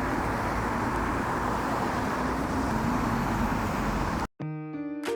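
Steady vehicle and road noise, a dense rumbling hiss. About four seconds in it cuts off abruptly and soft piano music begins.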